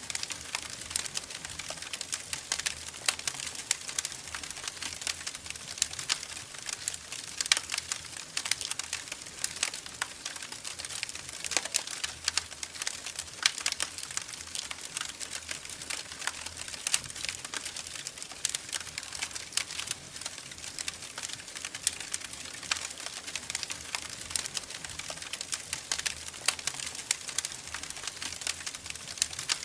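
Wood fire crackling in a fireplace: a steady hiss with dense, irregular snaps and pops, some of them sharper and louder.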